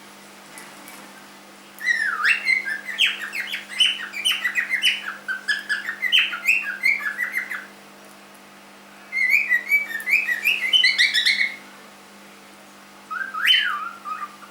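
A young cockatiel singing: quick chirping, warbling whistled notes in three bursts, a long one, a shorter one and a brief one near the end, with pauses between them.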